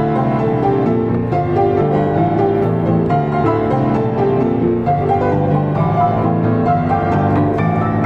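Diapason grand piano played solo: a continuous, busy stream of chords and melody notes.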